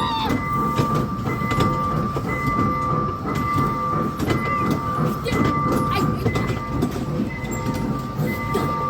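Ride train at a shopping mall running, with a repeating electronic tone pattern that comes on and off about once a second over a steady low rumble.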